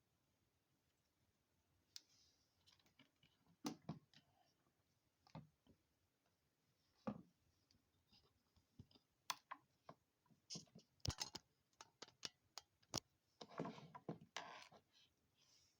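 Quiet, scattered clicks and taps of small parts and tools being handled while an RC crawler's front axle is taken apart, with a longer scratchy stretch near the end.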